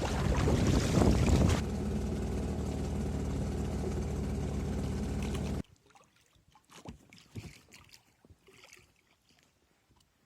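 Wind buffeting the microphone at first, then a boat motor running steadily at an even pitch, cut off abruptly a little past halfway; faint scattered clicks follow.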